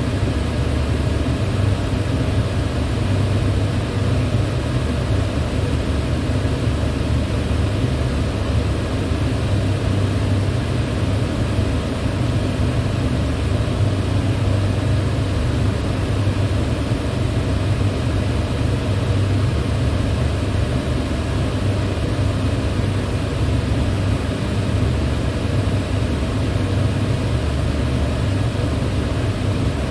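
Electric fan running steadily: a constant rush of moving air over a low hum, unchanging throughout.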